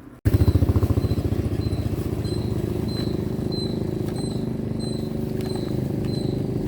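A small motorbike engine running at a steady speed. It cuts in abruptly a moment in, loudest at first, with a faint high chirp repeating about three times a second over it.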